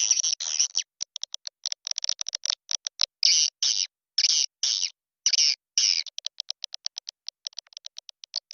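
Recorded swiftlet calling sound, the lure played to draw swiftlets: shrill chirps and twitters in short bursts with silent gaps between them, turning about six seconds in into a quick run of short clicking chirps, about six a second.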